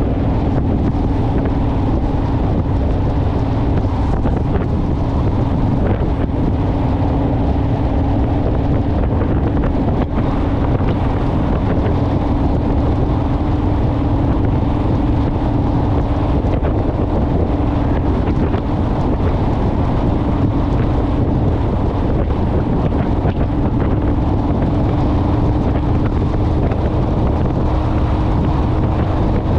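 Honda Rebel motorcycle's parallel-twin engine running at a steady cruising speed, its pitch holding nearly constant, under heavy wind rumble on the microphone.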